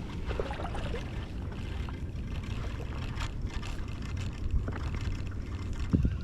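Wind rumbling on the microphone, with small water splashes and trickles against a stand-up paddleboard on the sea.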